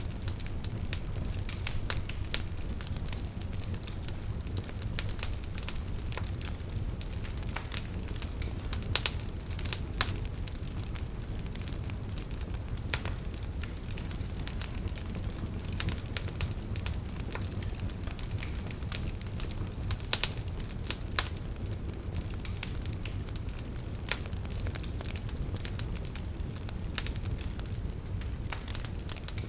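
Wood fire burning in a fireplace: a steady low rumble with irregular sharp crackles and pops, a few louder snaps scattered through.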